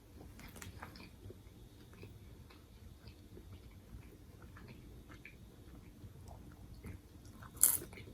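Close-up chewing of a banh mi sandwich, with soft wet crunching and small clicks of the mouth. A brief, louder crackle comes near the end.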